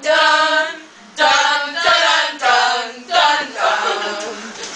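Several female voices singing together in a string of held notes with short breaks between them.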